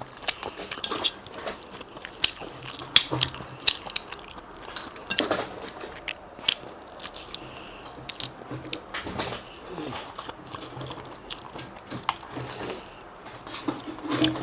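Close-up eating sounds: biting and chewing seasoned seafood, with irregular sharp crunchy clicks and wet mouth sounds.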